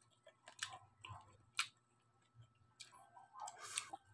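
Faint, close-up chewing of crispy fried pork belly crackling (lechon kawali): a few sharp crunches about a second apart, then a denser run of crackles near the end.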